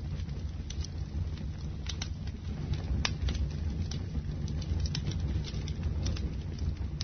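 Bonfire burning: a steady low rumble of flames with irregular sharp crackles and pops from the burning wood.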